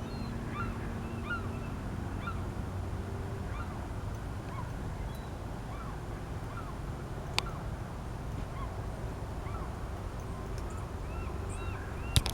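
A flock of geese honking, with many short calls overlapping and repeating.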